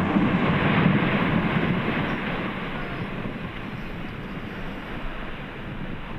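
Ice breaking off the front of the Perito Moreno Glacier and crashing into the water: a deep rumbling roar that comes in suddenly, is loudest for about the first two seconds, then fades to a steady rush of wind on the microphone.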